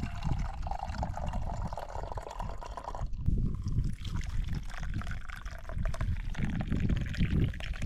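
Liquid poured into a cup or glass, the tone rising in pitch as it fills and stopping abruptly about three seconds in, over a low rumble.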